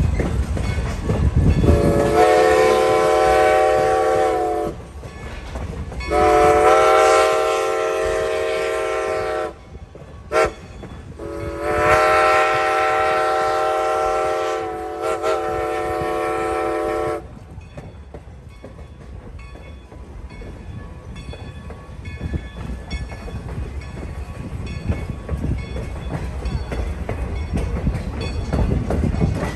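Steam locomotive whistle with a chord of several tones sounding two long blasts, one short and one long: the grade-crossing signal. It is heard from aboard the moving train, whose wheels keep clicking over the rail joints after the whistle stops.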